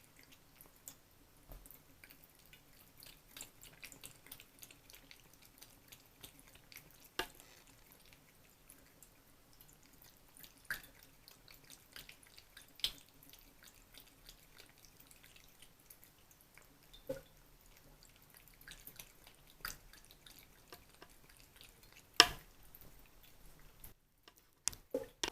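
Faucet dripping and trickling faintly, with many irregular small clicks of drops and a sharp tap about 22 seconds in.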